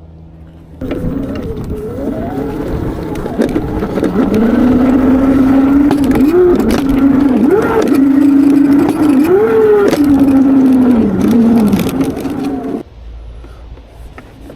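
Valtinsu EM22 electric dirt bike's motor whining while riding, its pitch swelling up and back down several times with the throttle, over a rushing noise and scattered knocks from the rough ground. The sound starts abruptly about a second in and drops away abruptly near the end.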